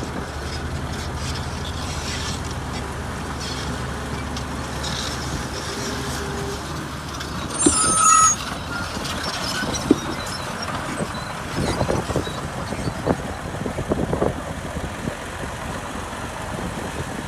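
Heavy diesel construction machinery running steadily, with a short, loud, high squeal and hiss about eight seconds in, then scattered clanks and knocks.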